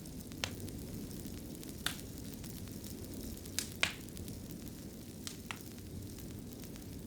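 Wood fire crackling in a fireplace: a steady low rumble with about six sharp pops scattered through it, the loudest about four seconds in.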